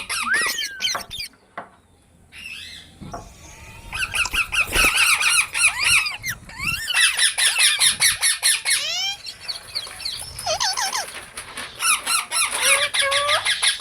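Several green parrots chattering with a rapid stream of high-pitched, squeaky chirps and short sweeping calls. There is a brief lull about a second and a half in, and then the chatter resumes densely.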